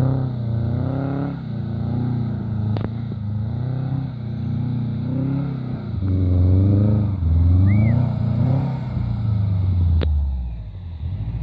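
Subaru Forester XT's 2.0-litre turbocharged flat-four engine revving up and down over and over as it is driven off-road in snow. Two sharp clicks, about three seconds in and near the end.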